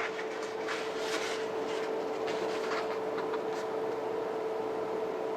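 Light rustles and taps of packaging being handled, fading out after a few seconds, over a steady electrical hum.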